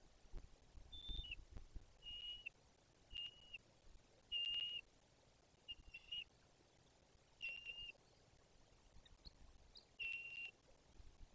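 A bird calling: a series of seven short, high whistled notes on a steady pitch, roughly one every second or so with a longer gap near the end. The first note slides down in pitch, and the loudest comes about four and a half seconds in.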